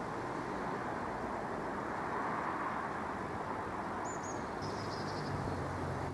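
Class 717 Desiro City electric train running on the line, a steady rumble and rail noise that swells slightly midway. A small bird chirps and trills about four seconds in.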